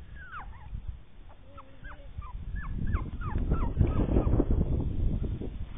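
Puppies whimpering and squeaking in a string of short, high cries, most of them falling in pitch. A low rumbling noise grows loud about halfway through and stays under the cries.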